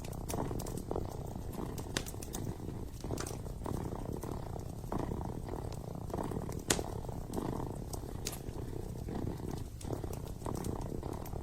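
Kitten purring close up in a steady, rhythmically swelling rumble, with scattered sharp pops and crackles from a burning wood fire; one pop a little past the middle is the loudest.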